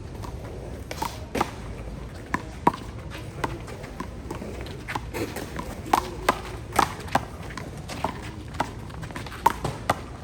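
Handball rally: a small rubber ball smacked by bare hands, hitting the wall and bouncing on the court. It comes as a run of sharp, irregularly spaced smacks.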